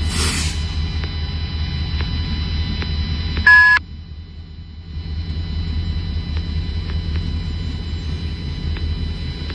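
Steady low engine rumble, with a short, loud electronic beep about three and a half seconds in.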